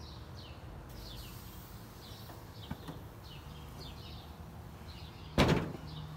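Birds chirping, repeated short downward-sliding notes. About five seconds in, the grill lid shuts with a loud bang.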